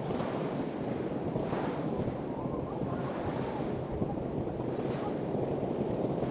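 Pacific Ocean surf washing onto the shore with wind rushing over the microphone: a steady, dense roar with no distinct breaks.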